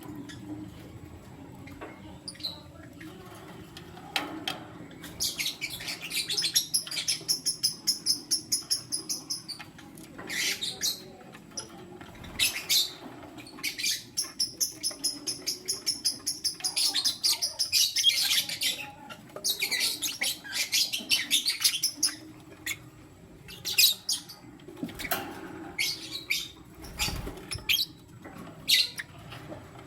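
A pair of lovebirds, one of them a lutino, chirping: two long runs of rapid, high-pitched short chirps at several a second, with shorter bursts and scattered single chirps between and after.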